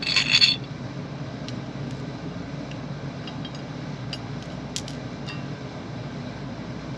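Small metal parts or tools clinking together in a brief burst, then a few light ticks and taps over a steady low hum.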